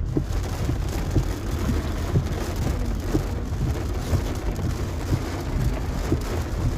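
Steady rain falling, with a low rumble of road traffic underneath.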